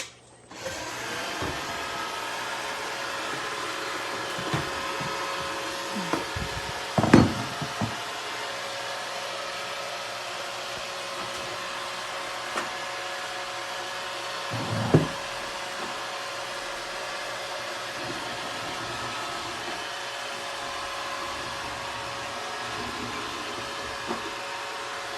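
Roomba robot vacuum running steadily, its motor and brushes making an even whir that starts about half a second in. A few dull knocks come over it, the loudest about seven and fifteen seconds in.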